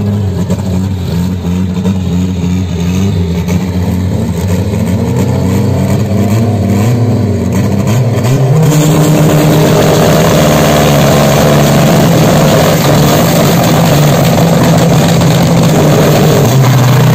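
Drag car engine running with its revs wavering, then about halfway through getting louder and held at a steady, higher rev.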